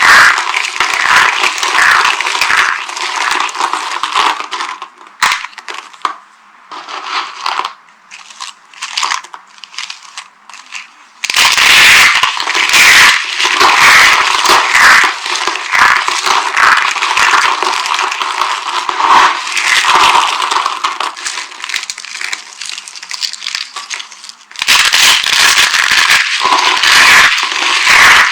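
Dry bar soap being crushed and crumbled: dense crunching and crackling, thinning to scattered crackles from about five to eleven seconds in, then dense again.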